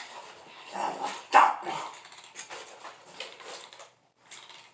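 Dog giving a string of short barks, quieter than the laughter and talk around them.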